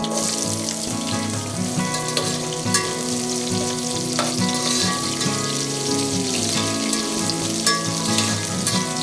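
Food sizzling as it fries in hot oil in a pan, a steady crackling hiss with scattered pops, over background music.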